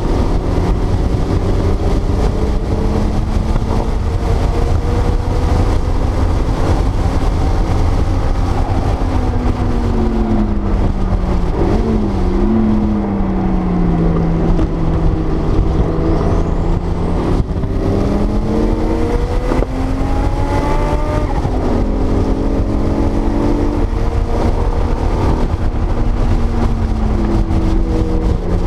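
1979 Porsche 930 Turbo's air-cooled, turbocharged flat-six heard from inside the cabin at track pace. Its pitch slides down and back up several times, with a quick blip about twelve seconds in and a long climb after it, over a constant heavy low rumble.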